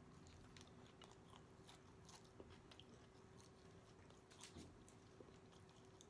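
Faint chewing and wet mouth sounds of a person eating a soft taco, with scattered small clicks and a slightly louder smack about four and a half seconds in.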